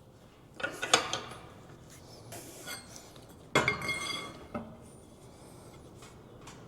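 Steel clanking against steel in a bench vise: two clusters of sharp knocks with a ringing tail, about a second in and again at about three and a half seconds, the second the louder, as a steel rod and bending bar are set and worked in the vise.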